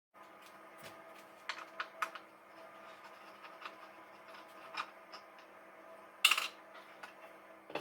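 Scattered light clicks and knocks of hard plastic parts of a Dyson DC39 barrel vacuum cleaner being handled as it is taken apart, with a louder short rattle about six seconds in. A faint steady hum runs underneath.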